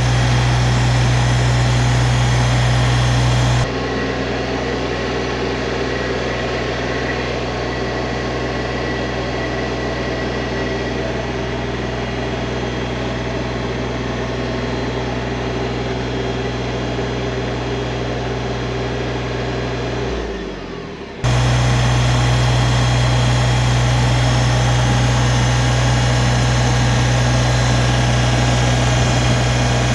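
New Holland Workmaster 25S compact tractor's diesel engine idling steadily while it warms up. The sound drops abruptly about four seconds in, and near twenty seconds the pitch briefly sinks before the louder steady idle cuts back in.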